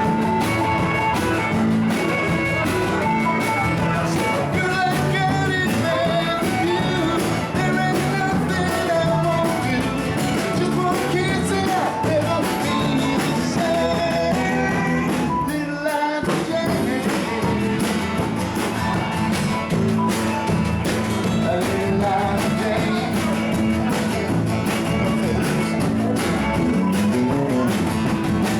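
Live band jamming a rock-and-roll tune with guitar, playing steadily, with a brief drop-out about sixteen seconds in.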